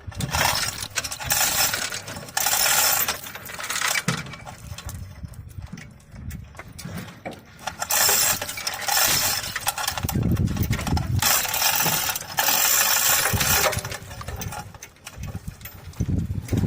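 Spells of metallic rattling and clinking, about five of them, each lasting one to two seconds.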